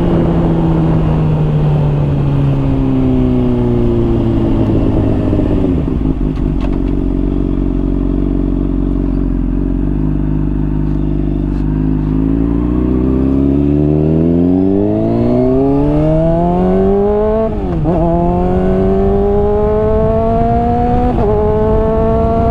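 Honda CBR600RR inline-four through a slip-on exhaust, winding down as the rider rolls off the throttle. It then runs low for a few seconds before accelerating hard. The pitch climbs steadily and drops briefly twice, about 18 and 21 seconds in, as it shifts up a gear each time.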